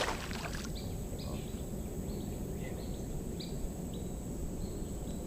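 A small bird calling with a series of short, high chirps, one about every half second, over a steady low outdoor rumble.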